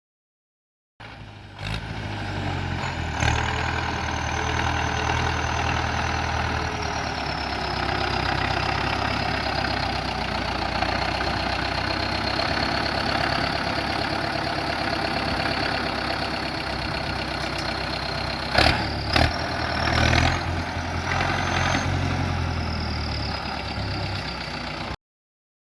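Zetor Turbo 6245 tractor's diesel engine running steadily, with a thin high whine that slowly drops in pitch and climbs again toward the end. A couple of sharp knocks come about two-thirds through, and the sound cuts off abruptly near the end.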